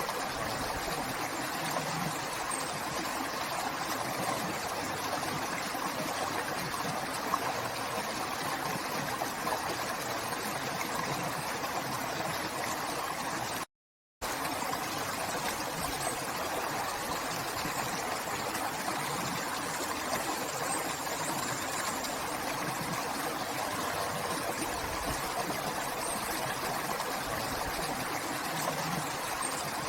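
River water flowing and rushing steadily. The sound cuts out completely for about half a second midway through, then resumes.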